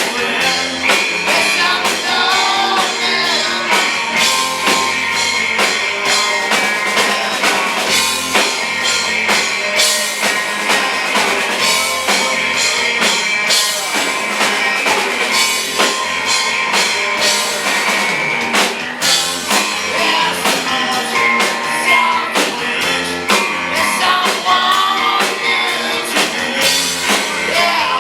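Rock band playing live on drum kit and electric guitars, with a voice singing.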